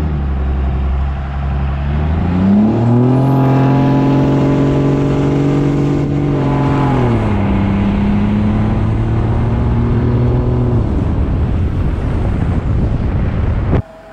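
P-pump 24-valve diesel pickup engine with an HE351 turbo under acceleration: its pitch climbs about two seconds in and holds while the truck pulls, drops once around seven seconds in, and steadies before the sound cuts off abruptly near the end.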